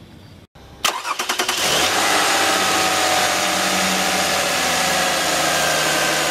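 A 3.3-litre V6 in a 2005 Lexus ES330 cranks briefly, with quick pulses about a second in, then catches and settles into a steady idle.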